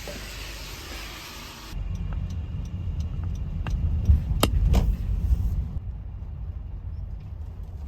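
A steady hiss that cuts off abruptly, then a car's low engine and road rumble heard from inside, with a few sharp clicks around the middle.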